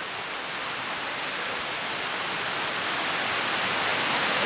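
Steady rushing of a creek waterfall, growing slowly louder.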